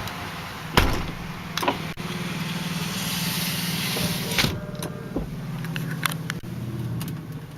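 Vehicle door shut with a solid thump about a second in, then an electric motor whirs for a couple of seconds and stops abruptly, over a low steady hum.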